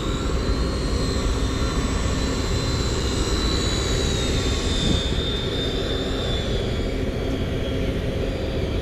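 A boat's engines running steadily, with wind rush, and a faint thin whine that slowly falls in pitch partway through.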